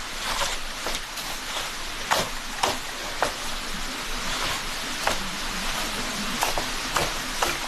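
Steady rushing of water from a forest stream, with a few irregular sharp clicks over it.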